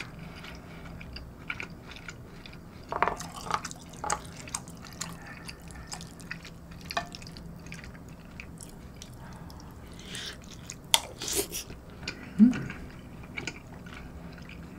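Close-miked eating sounds: wet chewing and mouth smacks from a mouthful of soupy kimchi stew and rice, with scattered short clicks and slurpy noises.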